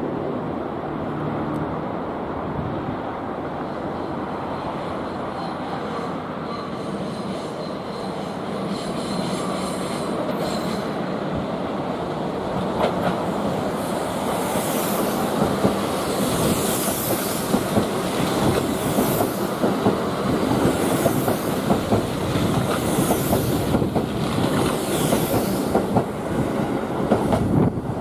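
A Kintetsu 50000 series Shimakaze six-car electric train rumbling in and passing slowly through the station, growing louder from about eight seconds in. As it goes by, its wheels click over the rail joints, and a high-pitched squeal from the wheels on the curve comes and goes about every two seconds.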